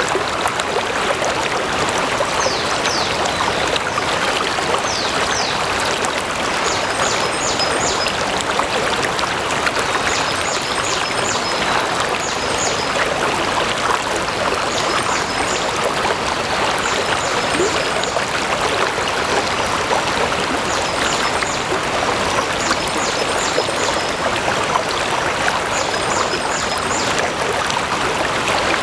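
Stream water flowing steadily, a continuous even rushing. Short high chirps come in small groups every few seconds.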